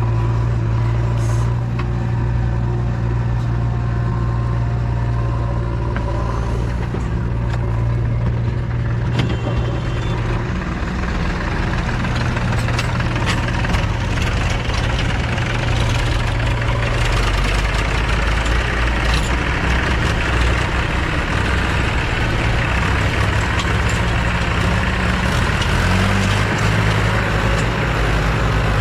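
JCB 3DX backhoe loader's diesel engine running steadily while it works, its pitch stepping down and up a few times, with a harsher, noisier note from about twelve seconds in.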